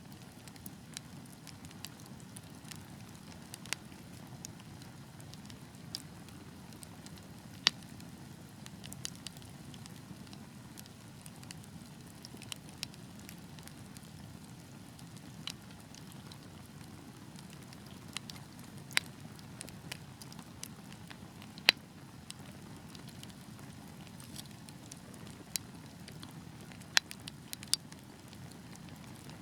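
Wood fire burning with a steady low rumble of flames and sharp, irregular pops and crackles every second or two, a few of them much louder than the rest.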